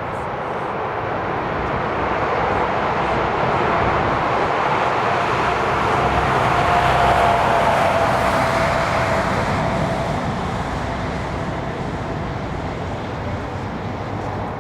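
Jet airliner's engines at takeoff power as it passes: a broad rush of engine noise that swells to a peak about halfway through and slowly fades, with a faint whine that slides slightly lower at the peak.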